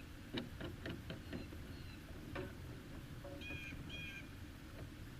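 A bird gives two short calls in quick succession about three and a half seconds in, over a steady low rumble of wind and water, with a few light knocks earlier on.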